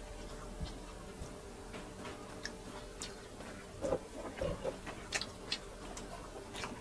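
Mouth sounds of eating grilled chicken by hand: scattered soft clicks and smacks of chewing and biting, irregularly spaced, over a faint steady hum.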